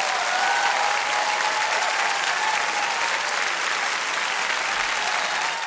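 A crowd applauding, a dense steady clapping that fades near the end.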